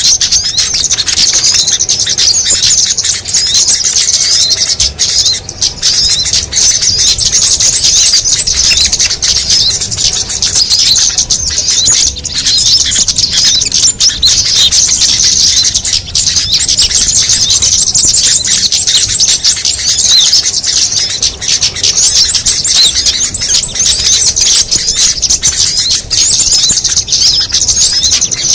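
Dense, unbroken chatter of many small songbirds, overlapping high chirps and twitters with no pauses: a mixed bird-lure (pikat) recording for calling small birds.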